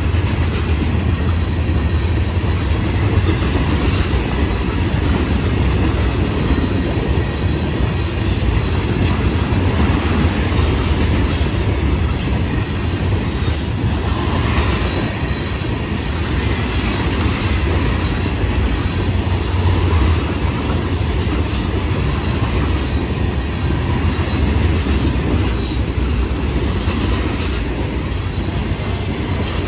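Freight cars of a Florida East Coast mixed freight train rolling past close by: a steady, loud rumble of steel wheels on rail. Scattered high-pitched wheel squeals and clicks come through, mostly from about a third of the way in.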